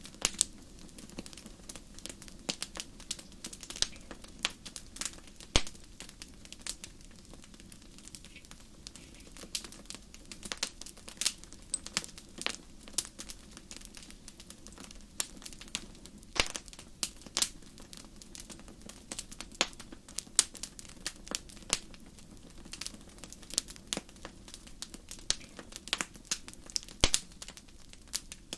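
Wood fire burning in a fireplace: irregular sharp crackles and pops, several a second, over a low steady hiss.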